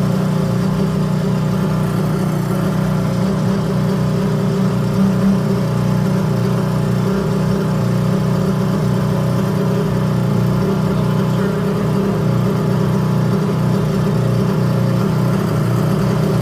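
Airboat engine and propeller running steadily under power, a loud even drone.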